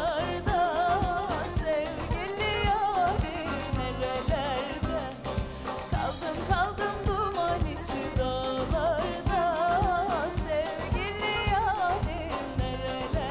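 Turkish folk-pop song: a woman singing a wavering, ornamented melody over instrumental backing with a steady beat.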